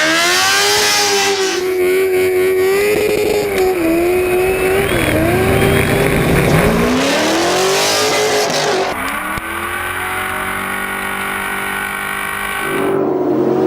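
Drifting vehicle's engine held at high revs, its pitch wavering, dipping and climbing as the throttle is worked, with a hiss of tyre noise swelling twice. Near the end the engine note steps up again.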